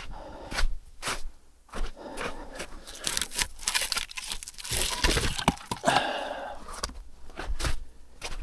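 Dry firewood being handled and broken: a run of sharp snaps, cracks and knocks, with a denser stretch of scraping and rustling in the middle.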